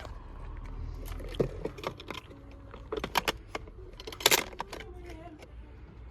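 Steady low rumble of a bus in motion, with a scatter of clicks and rattles, the loudest about four seconds in.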